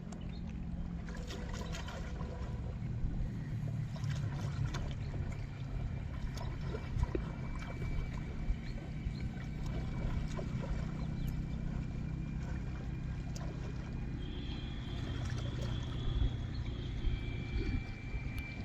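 Water sloshing and splashing with scattered small knocks over a steady low rumble, as people work in shallow pond water.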